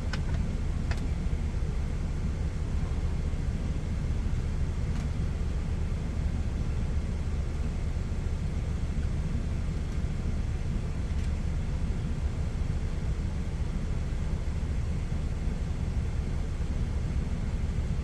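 Steady low drone of an idling truck engine, with a few faint light clicks over it.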